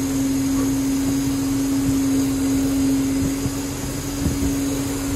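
Steady drone of an Airbus A321 during pushback: one constant humming tone over a low rumble, with a couple of faint knocks about four seconds in.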